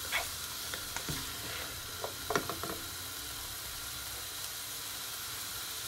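Callaloo and chopped vegetables sizzling steadily in a frying pan, with a few scrapes and taps of a plastic spoon stirring them in the first three seconds, then only the sizzle.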